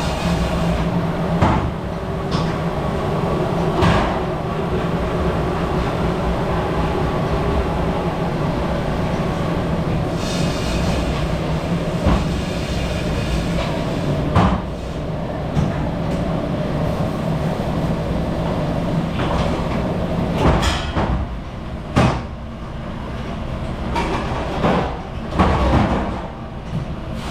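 Commercial dishwashing machine running with a steady rumble and hum, while dishes and racks knock and clatter now and then, about eight times.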